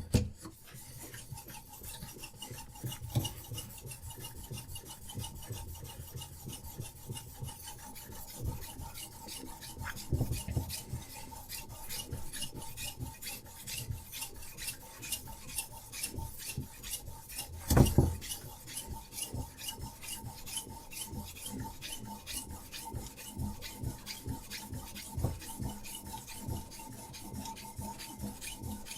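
A sharpening stone on a Hapstone RS guided sharpener is stroked rapidly back and forth along a knife's edge, making a continuous gritty rasping. A louder knock comes about eighteen seconds in.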